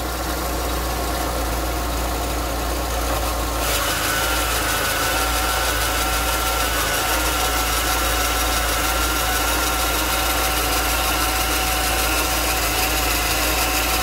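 Car engine idling, with a steady whine that comes in about four seconds in. The noise is put down to the power steering pump, whose shaft has play in it.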